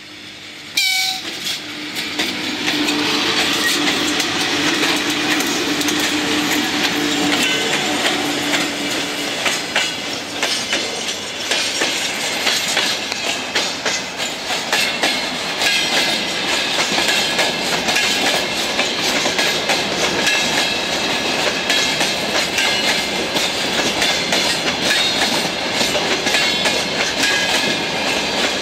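A VL11M electric locomotive and its freight train pass close by. The noise comes on suddenly about a second in, and a steady tone is heard while the locomotive goes past. Then a long string of loaded freight wagons rolls by, wheels clattering steadily over the rail joints.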